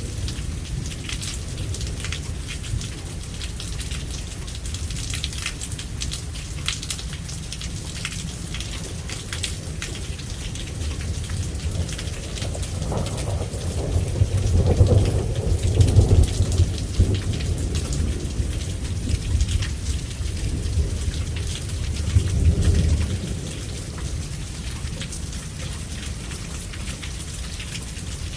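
Steady rain with close, sharp raindrop hits, and thunder rumbling twice: a longer roll near the middle and a shorter one a few seconds later.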